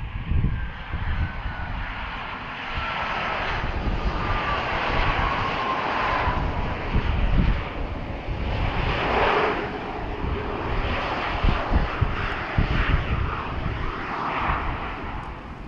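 Jet engines of a Boeing 737-500, CFM56-3 turbofans, roaring as the airliner passes, with a thin whine falling steadily in pitch over the first six seconds. Wind buffets the microphone.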